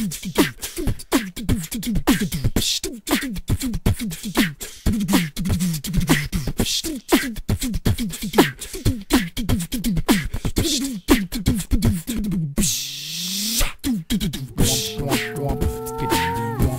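Human beatboxing: a fast, steady groove of mouth-made kick, snare and hi-hat sounds, the kicks dropping quickly in pitch. About thirteen seconds in, a longer falling swoop breaks the pattern. Near the end, held sung notes join over the beat.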